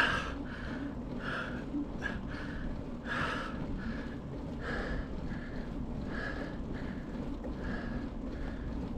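A cyclist breathing hard in short, quick puffs, about one or two a second, from the effort of climbing a steep road at high altitude, over a steady low rumble.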